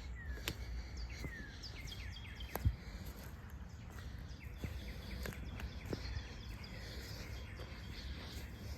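Birds chirping in a series of short falling chirps over a low steady rumble, with a few sharp clicks, the loudest a little under a third of the way in.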